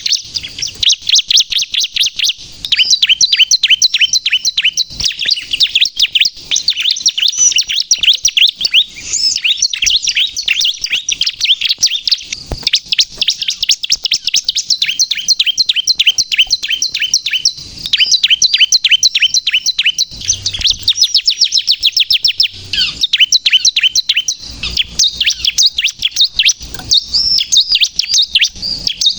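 Bar-winged prinia (ciblek kristal) singing in full voice: a rapid, nearly unbroken run of high, sharp chirps, many to the second, broken only by a few short pauses.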